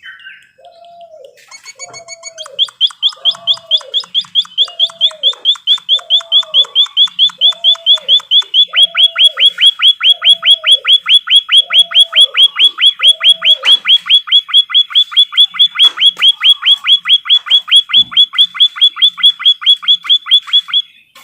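Recorded bird song: a songbird's long, loud trill of quick downward-sweeping notes, about five or six a second. Under it for the first two-thirds, a low call repeats about once a second.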